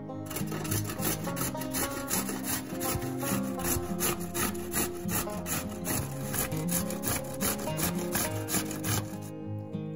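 Rhythmic rasping strokes, about four or five a second, over ongoing acoustic music; they stop shortly before the end.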